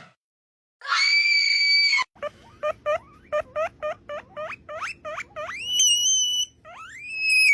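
Guinea pig wheeking: one steady high squeal, then a quick run of short rising squeaks, about four a second, ending in two longer rising whistles.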